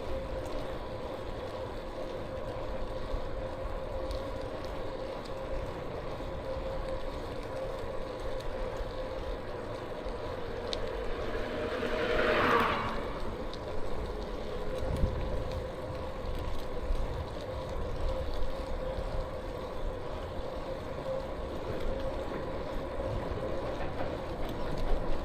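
E-bike riding along, with a steady whine and low wind rumble on the microphone. About halfway through comes a brief louder whoosh that falls in pitch.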